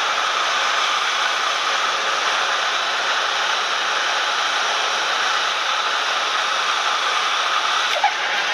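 Steady cabin noise of a Cessna 172M, its engine and the rushing air blended into an even hiss, with a short click near the end.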